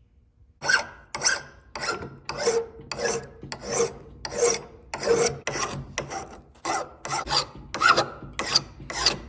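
A hand file rasping along the steel edge of a hatchet, being sharpened with quick back-and-forth strokes. The strokes start about a second in and keep up at about two a second.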